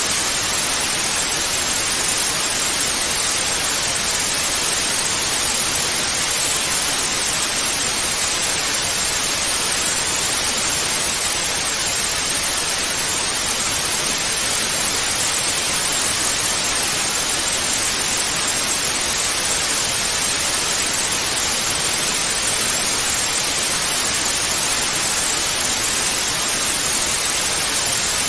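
Television static (white noise): a steady, even hiss with more treble than bass, unchanging throughout.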